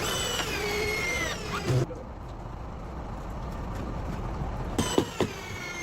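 A machine's motor whining, its pitch sliding down and then holding steady, over a steady noise; the whine stops after about two seconds and comes back near the end.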